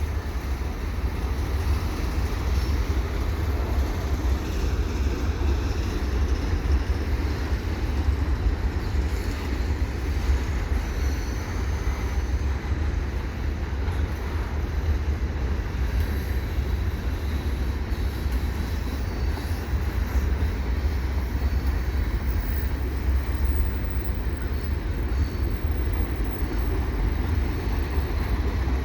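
Freight train cars rolling steadily past at close range: a continuous deep rumble of wheels on rail.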